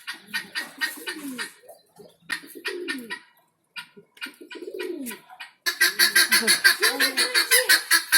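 Domestic pigeons cooing in repeated low, rolling phrases. About two-thirds of the way through, a louder, rapid high chattering of other birds joins in.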